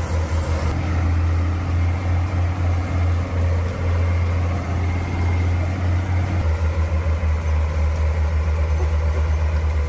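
Heavy truck engine running with a deep throb; about six and a half seconds in, the throb turns into a faster, even beat.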